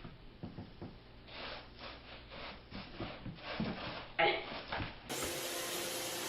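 A cat scratching and rubbing at something, heard as a run of short scratchy strokes. About five seconds in, the sound switches abruptly to a steady hiss.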